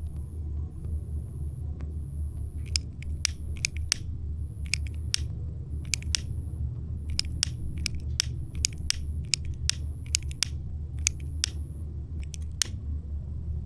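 Newly lit campfire crackling, its kindling giving sharp, irregular snaps and pops over a steady low rumble. A thin high chirp repeats about once a second until near the end.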